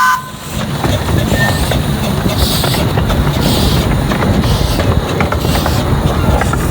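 A train running along the rails with a steady rumble and scattered clicks of the wheels.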